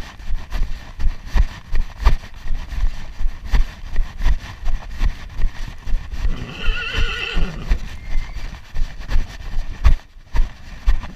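A horse whinnies once, a wavering call of about a second, over the steady rhythm of hoofbeats at about two a second.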